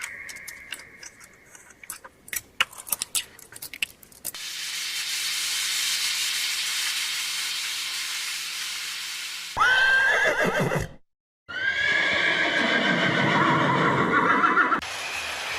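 A horse whinnying twice, each call starting high and falling in pitch, the first about ten seconds in and the second just after a short break. Before them come several seconds of scattered sharp clicks and then a steady hiss.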